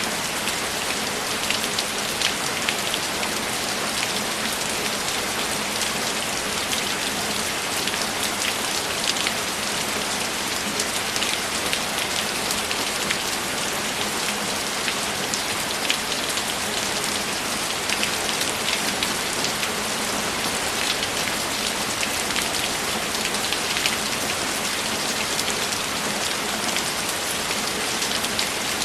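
Steady rain: an even hiss with many sharp individual drop hits scattered through it, unchanging throughout.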